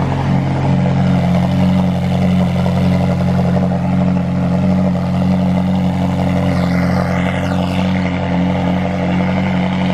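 A car engine running at a steady idle, a constant low drone with no revving.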